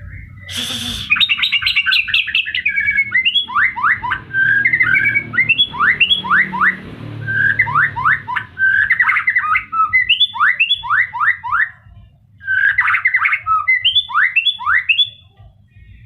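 White-rumped shama (murai batu) singing loudly: varied phrases of rapid trills and runs of quick downward-sweeping whistles, with a brief pause about twelve seconds in.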